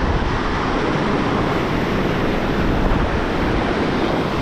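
Steady wind noise buffeting the microphone over ocean surf washing onto the beach.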